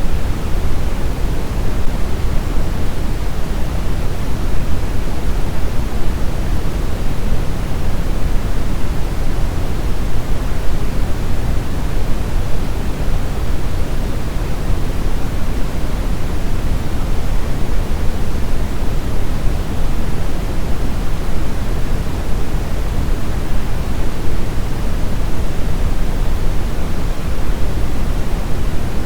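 Steady brown noise: an even, unchanging rushing hiss weighted heavily toward the low end, with no tones or events.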